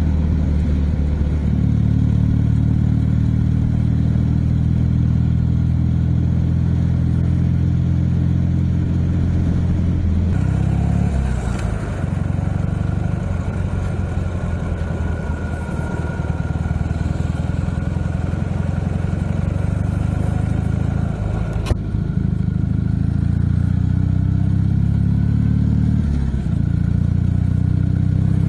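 Ural motorcycle's flat-twin engine, running on a single carburettor, under way. A steady engine note changes about ten seconds in to a rougher, busier sound with a faint whine. A single sharp knock comes about two-thirds of the way through, and near the end the pitch rises and then drops back to a steady note, as with a gear change.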